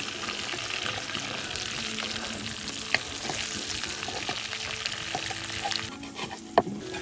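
Food sizzling as it fries in a pan, with a couple of sharp clicks of a utensil against the pan. The sizzle thins out near the end.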